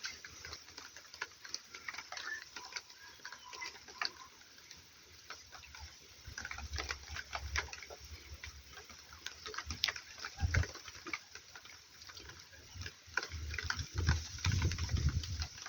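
Irregular patter and dripping of rain, with a few brief low thumps.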